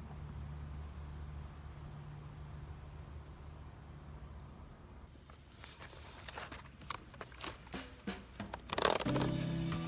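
Irregular crinkling and crunching noises of something being handled, starting about halfway through over a low steady hum, with the sharpest crackle just before music starts near the end.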